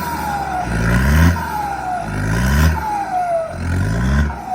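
Turbocharged Hino J07E diesel engine of a dump truck revved again and again, about three times, the engine note rising each time. After each rev comes a turbo whistle falling in pitch as the turbo spools down.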